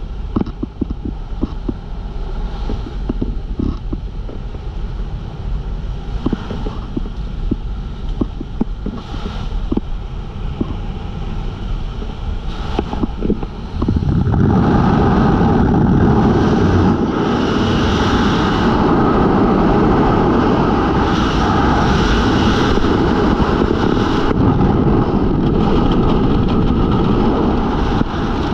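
Jump plane's engine and airflow noise with scattered clicks, then about halfway through a sudden step up to a loud, steady rush of wind on a helmet-mounted camera: the skydiver has exited into freefall.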